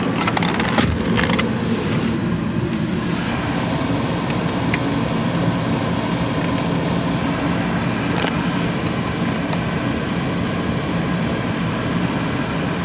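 Air-conditioning blower of a 2006 Lincoln Town Car running steadily inside the cabin, with the idling 4.6-litre V8 beneath it. A few soft knocks in the first second or so.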